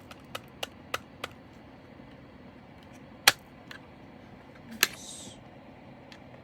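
Scattered sharp clicks and taps from handling small bags and containers of diamond-painting drills, the loudest about three seconds in, with a short crinkly rustle of plastic just before the end.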